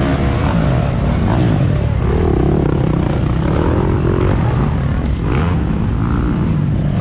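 Motocross dirt bike engines running and revving, their pitch rising and falling, with a steadier drone held through the middle.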